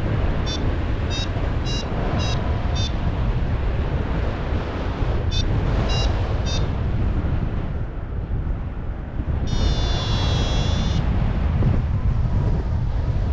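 Heavy wind buffeting the microphone in flight, with a paragliding variometer giving short high beeps about 0.6 s apart, five then three, the climb tone that signals lift. About ten seconds in, a longer high electronic tone sounds for a second and a half.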